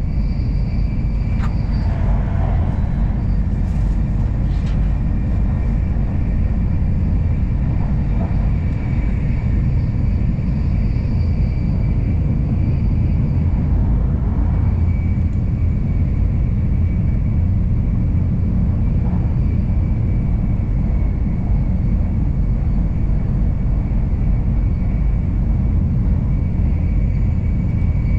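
N700 Series Shinkansen running, heard inside the passenger cabin: a steady low rumble with a faint high whine held on one pitch, and a few light clicks early on.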